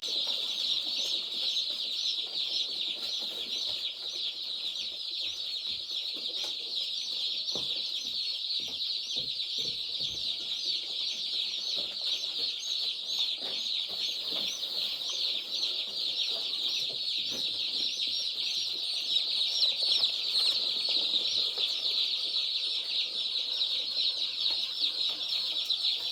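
A brooder full of day-old poultry chicks peeping shrilly and continuously, many high chirps overlapping.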